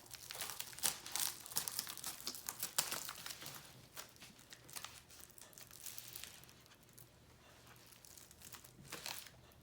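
Plastic packaging on an AirPods box being cut and crinkled, a dense run of crackling over the first few seconds that thins to occasional quiet crinkles, with a few more near the end.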